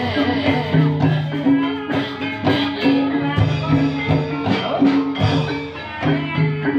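Live ebeg dangdut-style band music: a low riff repeating in short held notes under a steady beat of drums and percussion.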